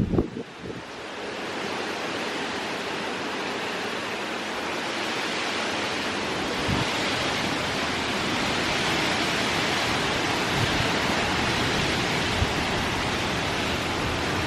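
Heavy hurricane rain driven by wind: a dense, steady hiss that builds over the first couple of seconds and then holds.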